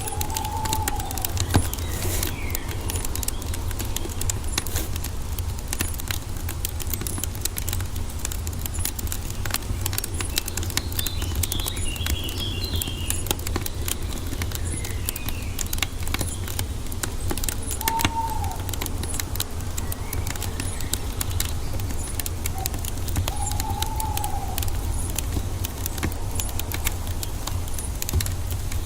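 Wood fire crackling with frequent small pops and snaps over a steady low rumble. A few bird calls come through: short arched calls about half a second in, about 18 s in and about 24 s in, and a brief run of higher chirps about 11 to 13 s in.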